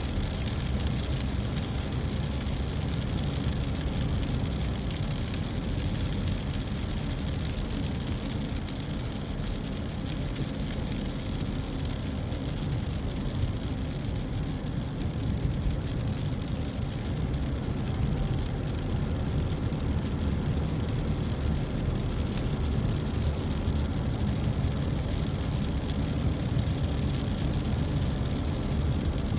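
Steady road noise inside a moving car driving in the rain: engine and tyres on a wet road.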